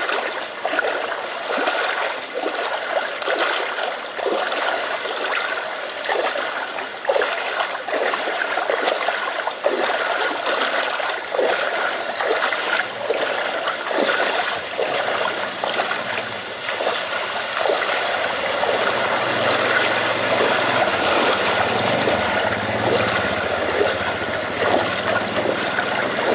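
Rain and running floodwater, with a dense stream of irregular drips and splashes. About two-thirds of the way through, a low steady hum joins in underneath.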